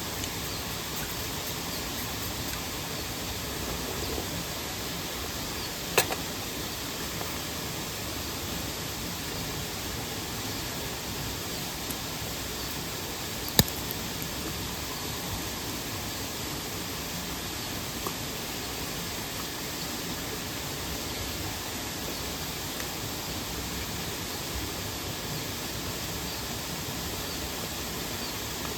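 Steady rushing of a nearby waterfall and mountain stream, broken by two sharp cracks, one about six seconds in and another about fourteen seconds in.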